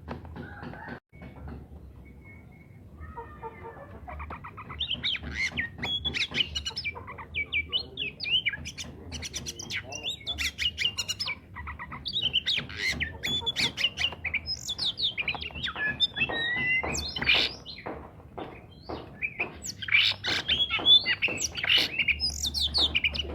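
Oriental magpie-robin (kacer) in full song: a fast, unbroken stream of loud, varied chirps, whistles and harsh squawking notes. It begins softly about three seconds in and grows dense and loud.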